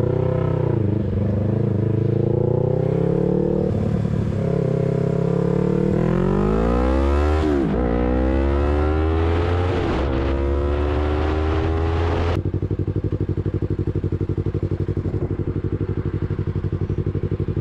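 Motorcycle engine under way, its pitch rising and falling with the throttle and climbing through the gears, with a hiss of wind. About two-thirds of the way in it changes suddenly to a steady, evenly pulsing idle.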